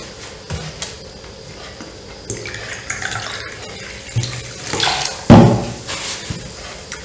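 A man chewing a soft sandwich, with wet, irregular mouth sounds. About five seconds in there is one sudden loud thump.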